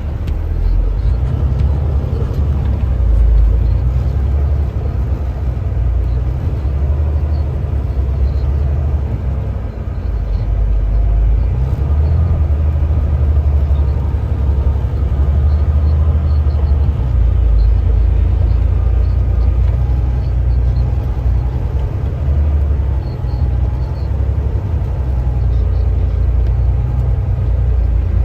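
Car-hauler truck driving on snowy roads: a steady, heavy low rumble of engine and road noise that swells and eases now and then.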